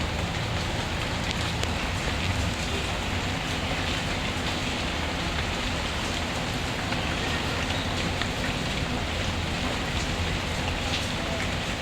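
Steady rain: an even, unbroken hiss with a low rumble underneath and faint scattered ticks of drops.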